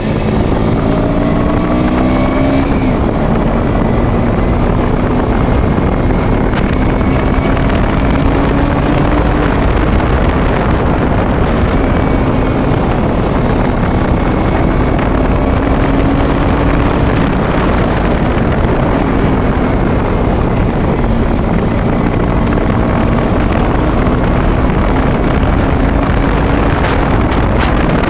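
Motorcycle engine running at a fairly steady speed while riding, its pitch drifting slightly up and down, under heavy wind noise on the microphone.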